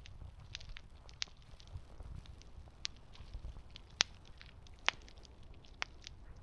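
Campfire crackling: irregular sharp pops and snaps of burning wood over a low rumble, with the two loudest pops about four and five seconds in.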